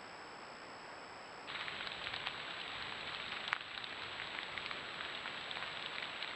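Rain pattering on vegetation, heard through a trail camera's microphone as a steady hiss with many scattered light ticks. The sound steps up abruptly and gets louder about a second and a half in.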